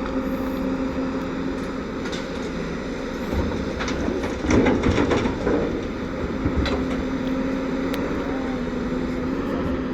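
Bulldozer's diesel engine running steadily under a clanking, rattling undercarriage, with scattered metallic knocks and a louder stretch of rattling and crunching about halfway through.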